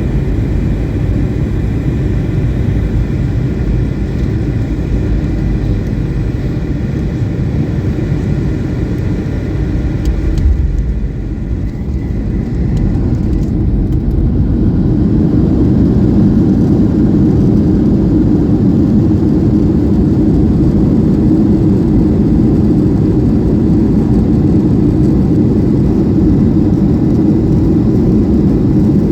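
Cabin noise of a Boeing 737-800 airliner: a steady low rumble of engines and airflow, with a brief thump about ten seconds in, then growing louder from about fourteen seconds on.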